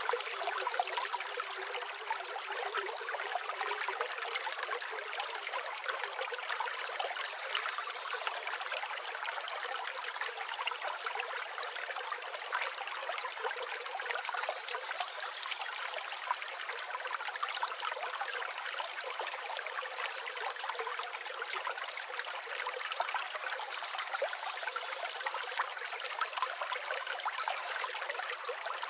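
Flowing river water: a steady rush with fine trickling and gurgling. A few faint, short, high bird calls come through it now and then.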